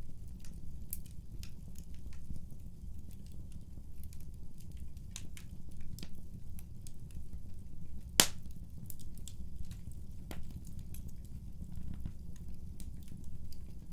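Wood fire burning in a fireplace: a steady low rumble of flames with scattered sharp crackles and pops, and one loud crack about eight seconds in.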